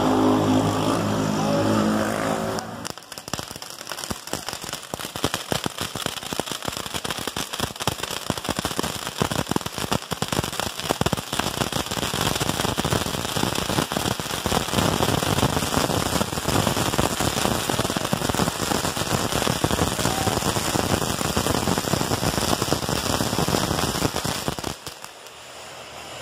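Bonfire crackling loudly: a dense, irregular run of snaps and pops from burning wood, starting about three seconds in.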